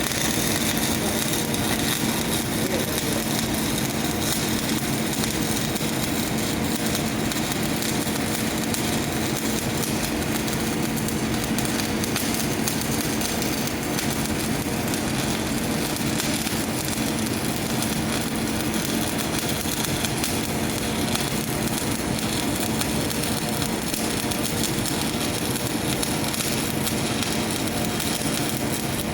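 Shielded metal arc welding with an E6013 stick electrode at 115 amps: the arc crackles and sizzles steadily over a low steady hum.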